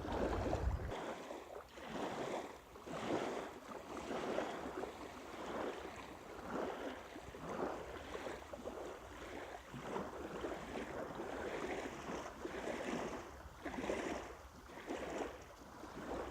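Small wind-driven waves splashing and lapping at the water's edge, a wash of water every second or so, with a short burst of wind rumble on the microphone in the first second.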